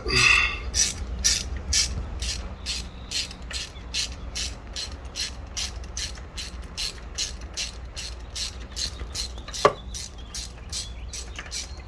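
Hand ratchet wrench clicking in a steady rhythm, about two or three clicks a second, as it is worked back and forth to loosen a spark plug on a HEMI V8. One louder knock comes near the end.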